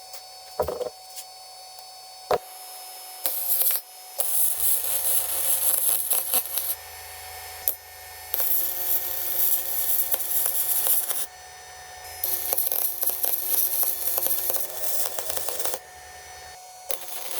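DeWalt portable band saw running with a steady motor hum and cutting, a loud high hiss in three spells of a few seconds each, after a few sharp knocks.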